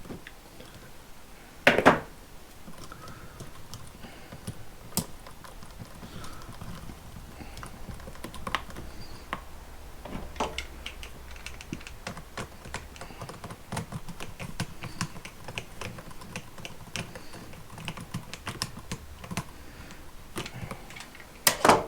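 Rapid small clicks and taps from hands working a wall light switch and its stiff wires at an electrical box. There is a louder knock about two seconds in and another near the end.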